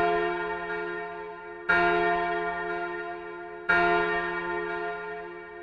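A large bell tolling slowly, one stroke about every two seconds, each ringing with many overtones and fading away.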